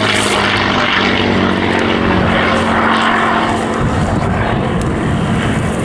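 P-51 Mustang's Merlin V12 engine and propeller running loud and steady in display flight, a continuous drone with a low hum.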